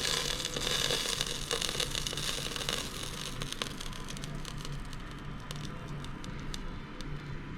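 Chicken sizzling in the hot cooker pan, the sizzle loudest for the first three seconds and then dying down, with scattered light clicks.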